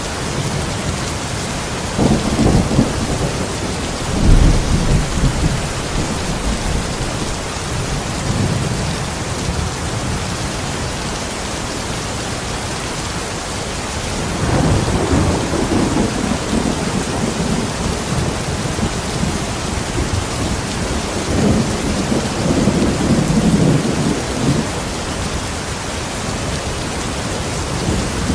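Steady rain with low thunder rumbling several times over it: about two and four seconds in, again near the middle, and once more later on.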